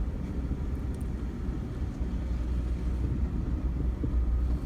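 Vehicle riding over the field with a steady low engine and ride rumble.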